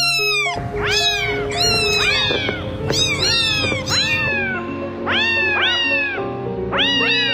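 Kittens mewing over and over in high calls that rise then fall, about two a second and some overlapping, over background music.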